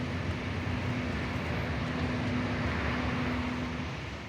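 Diesel train idling at a station: a steady low rumble with a constant droning hum.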